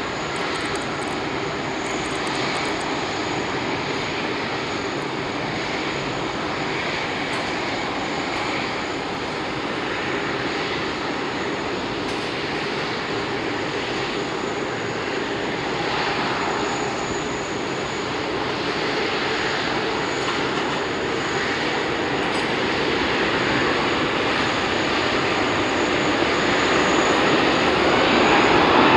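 Airbus A380's four jet engines running, a steady rush of engine noise that grows gradually louder toward the end.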